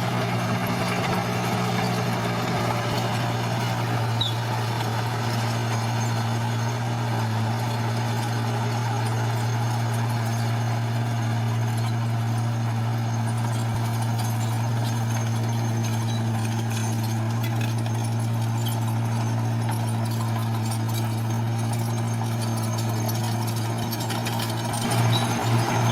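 Heavy machine's diesel engine running steadily, a low even hum with a faint hiss above it, with a few uneven surges near the end.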